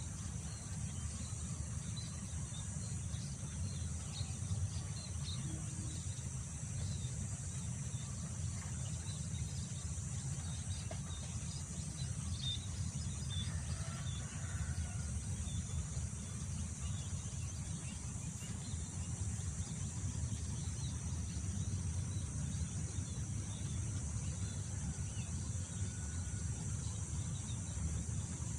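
Outdoor ambience of wind rumbling on the microphone under a continuous high insect drone, with scattered faint bird chirps.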